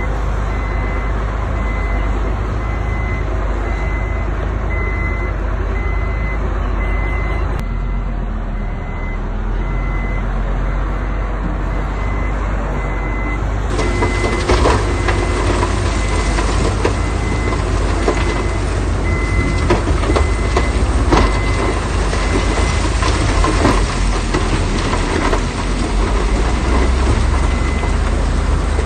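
Heavy construction machine engine running with a reversing alarm beeping steadily at an even pace. From about halfway through, louder clattering and knocking joins in, like stone being moved.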